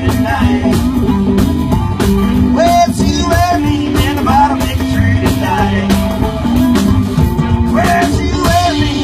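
Rockabilly band playing live: a lead line of bending guitar-like notes over a steady bass line and a regular drum beat.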